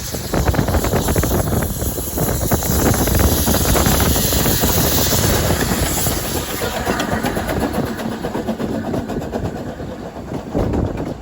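Narrow-gauge steam train running, with a steady low rumble and a hiss of steam that fades about halfway through.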